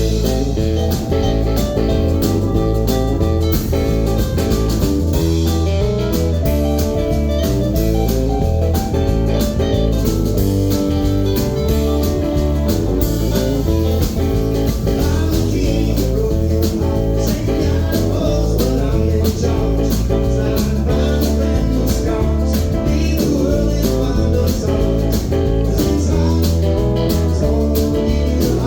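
Live band playing a blues-tinged song, guitar to the fore over bass and a steady drum beat.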